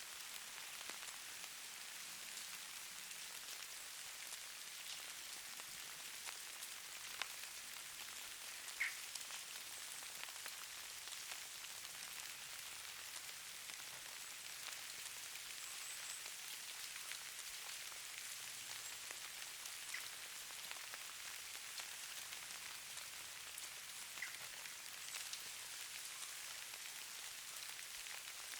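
Steady soft patter and hiss of falling precipitation, many tiny drops or grains ticking on a surface, with two faint short high chirps about nine seconds in and again near the end.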